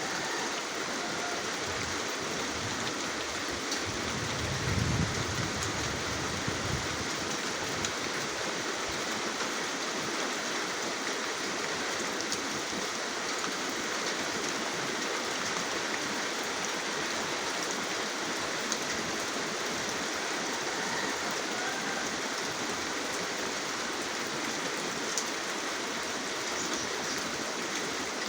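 Steady heavy rain falling, an even hiss, with a brief low rumble about five seconds in.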